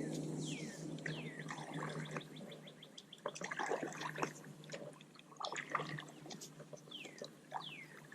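Birds calling outdoors: short chirps that sweep down in pitch, a few near the start and several more towards the end, over a scatter of clicks and rustling.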